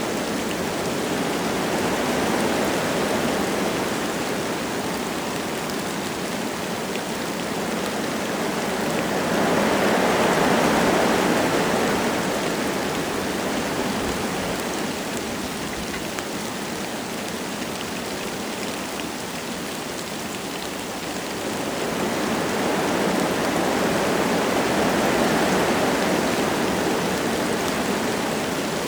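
Wind gusting through forest trees, a steady rushing that swells about ten seconds in and again after about twenty-two seconds, with light rain pattering under it.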